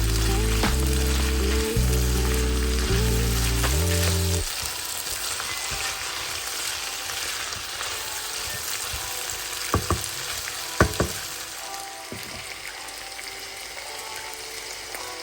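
Food frying and sizzling in a pan, a steady crackling hiss, with a few sharp clicks past the middle. Background music with a bass line plays over it for the first four seconds or so, then stops.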